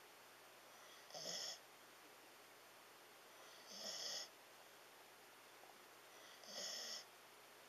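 Siberian husky snoring in its sleep: three short snores, about two and a half seconds apart.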